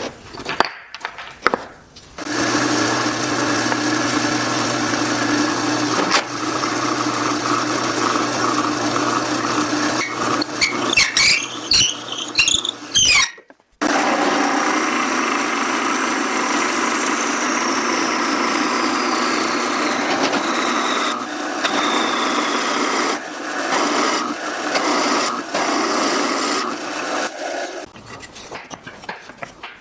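A power tool working wood, running steadily for several seconds, then a few quick clicks and knocks and a brief stop about halfway, then a power tool running again for over ten seconds.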